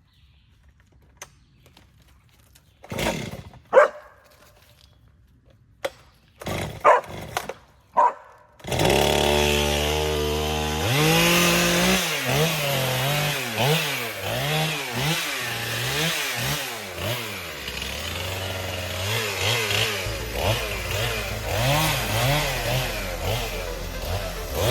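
A few short sounds, then a chainsaw starts about nine seconds in, runs briefly at a steady speed, and is revved up and down over and over.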